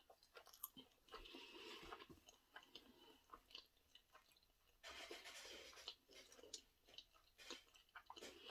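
Quiet, close-miked chewing of a mouthful of sushi: soft wet mouth sounds with many small clicks.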